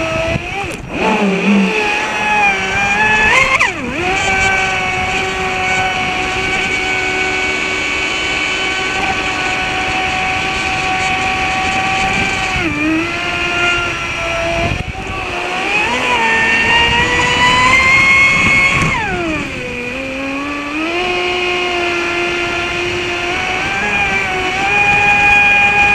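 Traxxas Spartan RC boat's brushless electric motor whining at high speed on a 3S LiPo. The pitch dips sharply several times and climbs back as the throttle is eased and reapplied, with a long rise to its highest pitch past the middle before dropping away.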